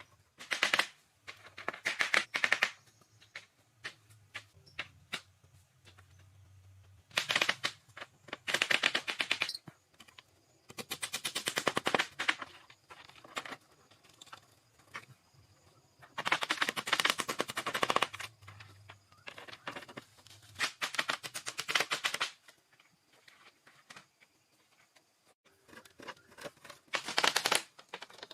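Bursts of rapid clicking strokes, each lasting one to two seconds, repeated about eight times with pauses between.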